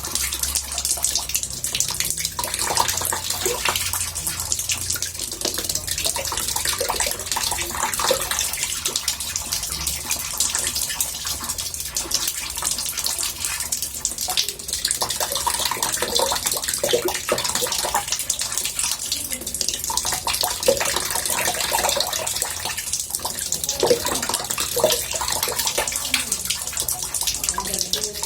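Water running steadily from a tap into a bathtub, with a continuous splashing, bubbling rush and no pauses.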